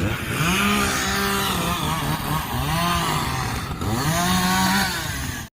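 Two-stroke chainsaw revving and cutting through a fallen tree, its pitch dipping and rising again three or four times as it is throttled and loaded. The sound cuts out abruptly near the end.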